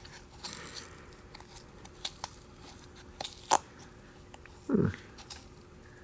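Handling of a cut-open oil filter's pleated paper element: crinkling and tearing with scattered sharp clicks, one loud snap a little past the middle and a short low scrape just after.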